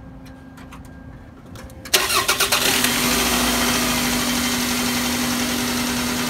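A 2000 Toyota Solara's four-cylinder engine starting about two seconds in, catching after a brief run of pulses and settling into a steady idle.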